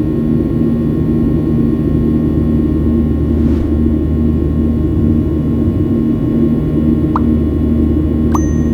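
Steady jet engine drone and airflow of a Boeing 737 heard inside the cabin as it climbs after takeoff, with a couple of faint short ticks near the end.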